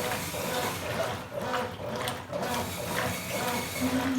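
Top-load agitator washing machine agitating a full load of clothes in water, the agitator swishing back and forth with a repeating churn and slosh.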